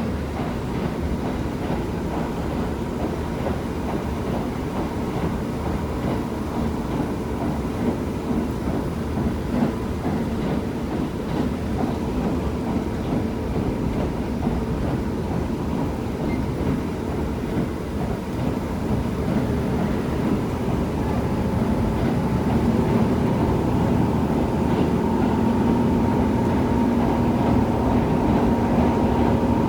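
KiHa 75 diesel railcar under way: steady running noise and engine drone with a constant hum, growing louder and stronger in tone over the last several seconds.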